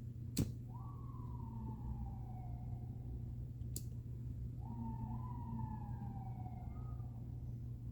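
Faint siren wailing: a tone that rises quickly, then falls slowly over about two seconds, heard twice, over a steady low hum. A sharp click sounds near the start and another a little before the midpoint.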